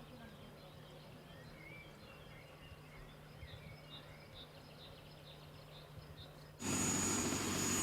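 Faint outdoor ambience with scattered short bird chirps and a low steady hum. About six and a half seconds in, a loud, steady engine noise with a high whine cuts in abruptly, as from an aircraft.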